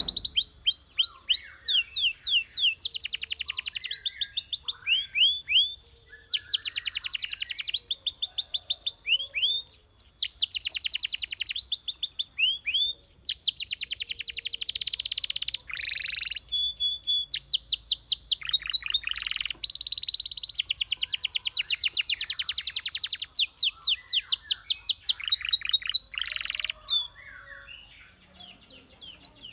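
A Belgian canary singing. Its song runs in fast trills of rapidly repeated high notes, phrase after phrase with short breaks. It goes quiet for a couple of seconds near the end before singing again.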